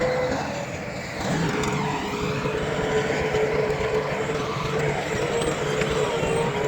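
Heavy diesel earthmoving machinery, bulldozer or dump truck, running steadily, with a constant high whine over the engine noise.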